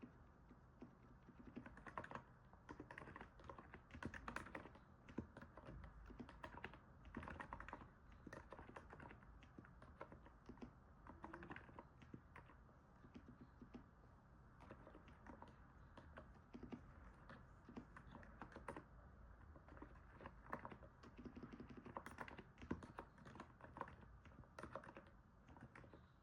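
Steady, irregular typing on a NIZ 68 Pro electro-capacitive keyboard. The keystrokes are quiet and soft, in quick runs broken by short pauses, a sound likened to stepping on snow.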